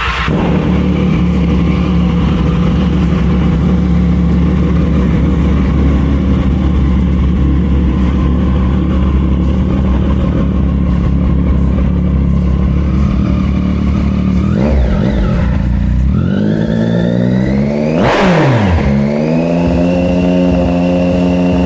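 Triumph Street Triple 675's inline three-cylinder engine through an HP Corse aftermarket exhaust, idling steadily, then revved: a short blip about fourteen seconds in, a longer climb that peaks and drops away sharply, and another rise held at higher revs near the end.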